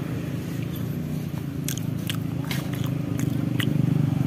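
Close-up chewing of a mouthful of satay, with a run of wet mouth clicks through the middle. Under it runs a steady low rumble of roadside traffic engines that grows louder near the end.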